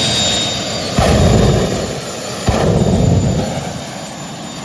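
Jet engine of a jet-powered minivan running with a steady roar, jumping suddenly louder twice, about a second in and again about two and a half seconds in, then easing off.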